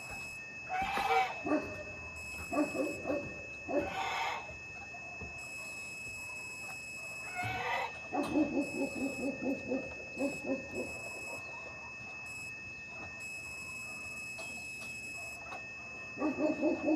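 An animal calling in runs of short, rapid notes, about eight seconds in and again near the end, over a steady thin high tone.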